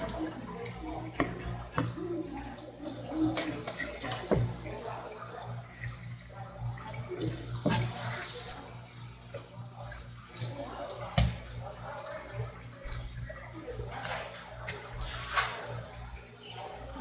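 A tap running into a sink, with occasional sharp knocks and clatter as a flounder is washed and handled under the water. A low steady hum sits underneath.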